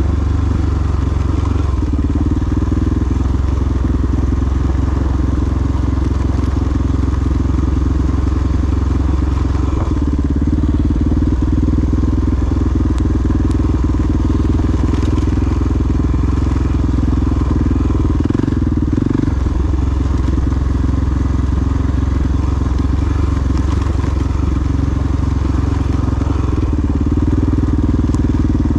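Single-cylinder four-stroke dual-sport motorcycle engine running steadily while riding, its note changing a few times, around ten seconds in and again near nineteen seconds.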